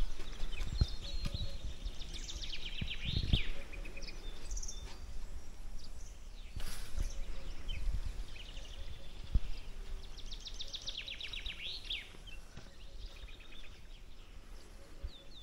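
A songbird singing twice, a few seconds apart: each song is a fast run of repeated descending notes ending in a short flourish. There are occasional low knocks in between.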